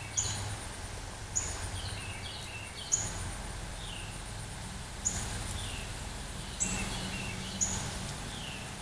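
A songbird calling repeatedly: about six short calls, each a sharp high chirp followed by lower falling notes, every second or two. A steady low hum runs underneath.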